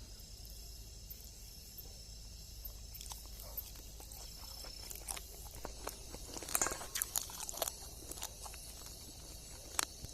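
Crickets and other night insects chirring steadily, with scattered soft clicks and rustles of handling close by, a cluster of them about two-thirds of the way through and a sharp click near the end.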